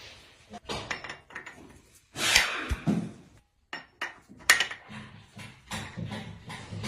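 Tools and metal parts being handled: a run of irregular knocks and clinks, with a longer scraping rustle about two seconds in and another at the end.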